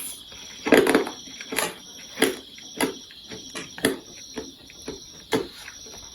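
Close-up eating sounds of chow mein noodles being chewed: short wet clicks and smacks at uneven intervals, about one to two a second, the loudest and longest just under a second in. A faint steady high tone runs underneath.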